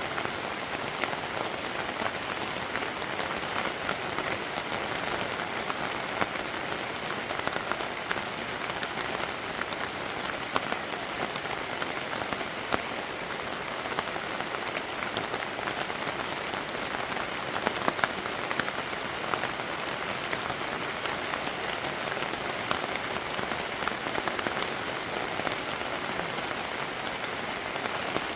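Steady rain falling: a continuous hiss dotted with many distinct drop taps, with a few louder drop hits about two-thirds of the way in.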